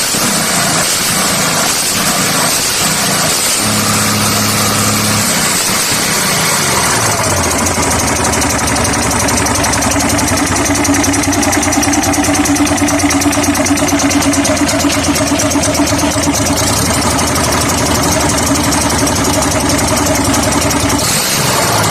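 Freshly assembled engine starting and running: uneven at first, its speed falls and settles about seven seconds in, then it runs steadily at idle until the sound changes near the end.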